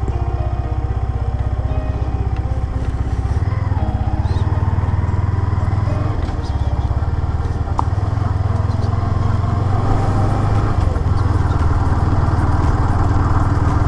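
Motorcycle engine running while riding along a road, its note shifting up and down a few times with throttle and gear changes.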